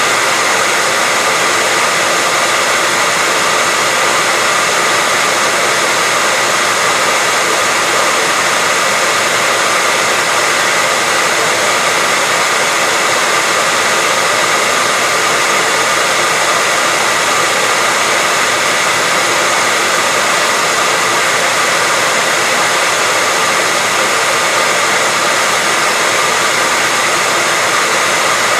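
Hair dryer running steadily: a constant rushing hiss from its fan, with a faint steady whine on top.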